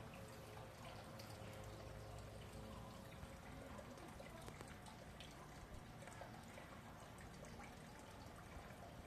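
Red panda chewing bamboo: faint crunching and snapping, many small clicks over a low steady background.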